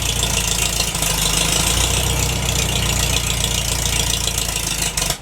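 Antique Cockshutt Hart-Parr 18-28 tractor engine running steadily after a hand-crank cold start, then cutting out abruptly near the end. It dies from lack of fuel: it needs a little more gas.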